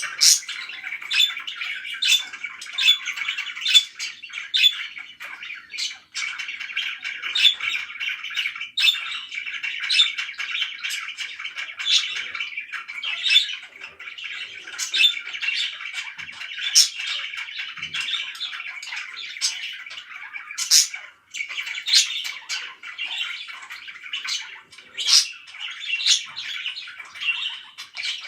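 Pet parakeets chirping and chattering without a break, with frequent short, sharp squawks throughout.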